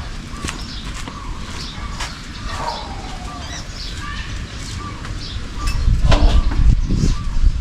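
Short bird chirps repeating about twice a second over a rural background, with low thuds near the end, which are the loudest part.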